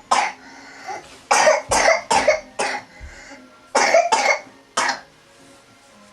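A person coughing in short, harsh bursts: one cough, then a run of five, then three more, like a coughing fit.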